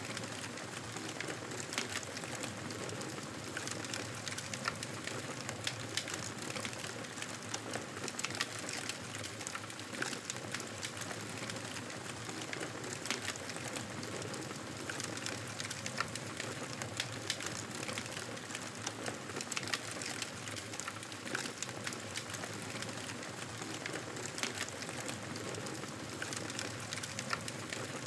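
Campfire burning: a steady hiss with frequent sharp crackles and pops from the burning wood.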